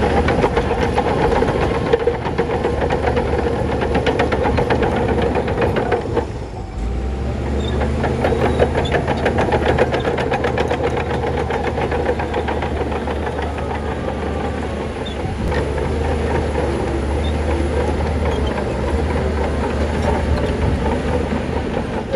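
Shantui crawler bulldozer's diesel engine running steadily, with a fast, continuous clatter of steel tracks and stone. The sound drops briefly about six seconds in, then picks up again.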